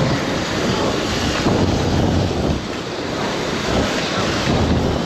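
Wind buffeting the microphone as a rider travels on a mini electric dirt bike: a loud, uneven rush of noise that rises and falls slightly.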